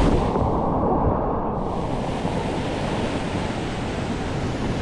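Rushing white water of a river rapid around a raft, a steady noisy wash with wind buffeting the microphone; the sound goes briefly duller near the start.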